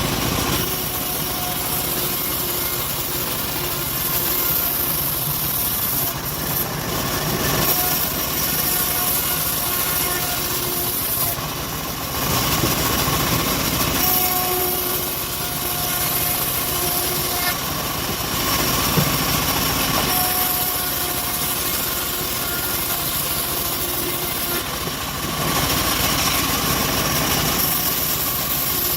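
Homemade bandsaw mill running steadily while its blade cuts through an acacia log; the high cutting hiss grows stronger and weaker every few seconds over the constant machine drone.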